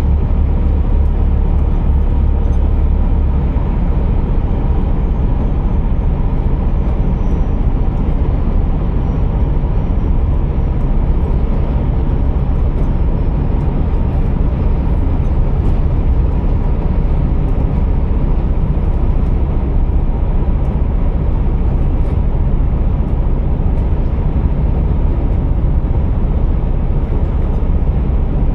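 Scania R480 truck's diesel engine running, heard from inside the cab as a constant, steady low rumble.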